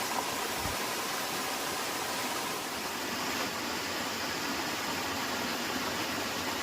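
Steady rushing of a small waterfall, water pouring continuously over rocks at a moderate flow.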